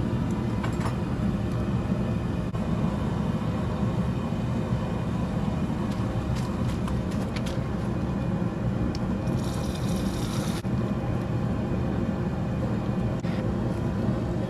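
Steady low roar of the forge heating the Damascus knife blade to quenching temperature. About nine and a half seconds in comes a hiss lasting about a second, the sound of the hot blade going into the used motor oil quench.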